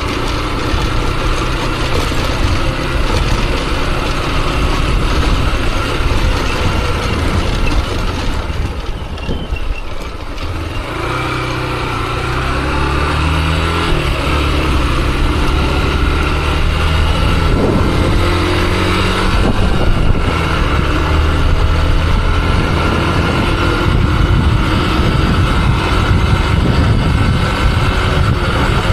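Motorcycle engine running under way, with steady wind and road noise over the helmet microphone. The engine eases off briefly, then picks up speed about eleven seconds in, rising in pitch for a few seconds before holding steady.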